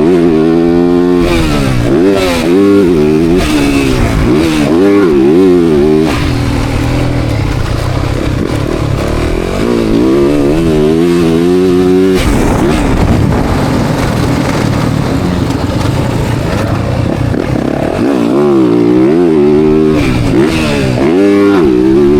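Motocross dirt bike engine heard on board. It revs up and backs off again and again as the bike accelerates and slows around the track, with stretches of lower, rougher running in the middle.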